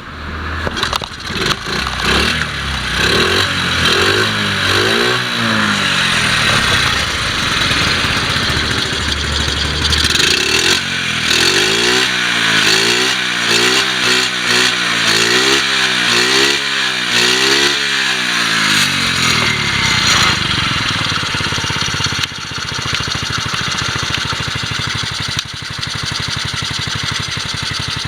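Honda Super Cub 50's C50E 49 cc four-stroke single-cylinder engine running, revved up and down over and over with the throttle, about eight quick revs in a row in the middle, then settling to a steady idle.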